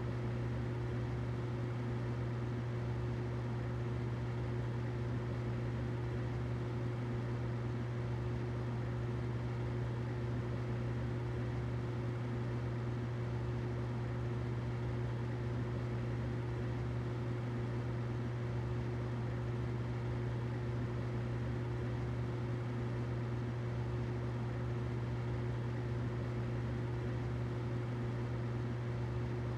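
Humidifier running: a steady low hum under an even hiss.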